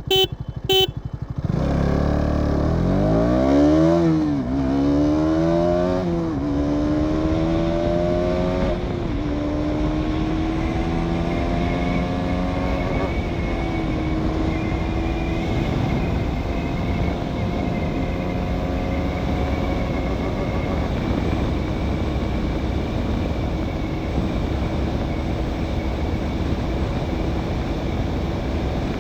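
KTM Duke 200 BS6's single-cylinder engine accelerating hard through the gears: its note rises and drops back at each of four upshifts, then holds a steady high pitch at near top speed under a constant rush of wind and road noise. A couple of sharp clicks come at the very start.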